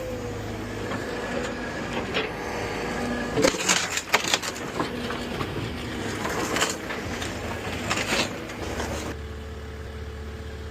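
Excavator's diesel engine running while it breaks up and moves brick and concrete rubble, with several loud crunching knocks and crashes in the middle. Near the end only the steady engine hum remains.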